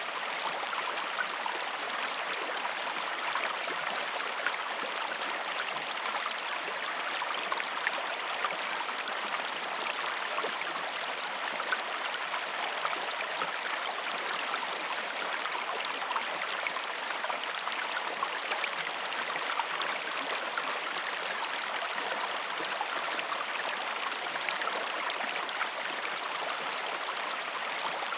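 River water flowing steadily, an even rushing with fine little splashes throughout.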